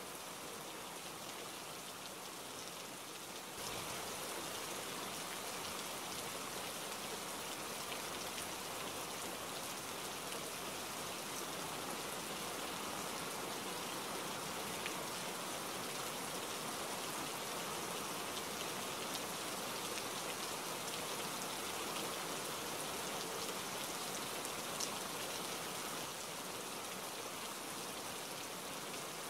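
Steady rain falling, an even hiss with scattered fine drop ticks; it grows a little louder about three and a half seconds in.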